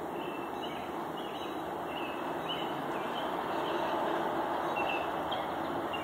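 A bird chirping repeatedly, short high notes roughly twice a second, over a steady rushing background noise with a low hum that is louder than the birdsong.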